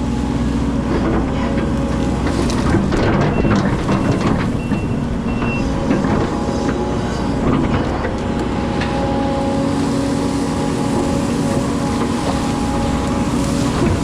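Hydraulic excavator working: its diesel engine runs steadily under load, with steady whining tones over the rumble and scattered short knocks.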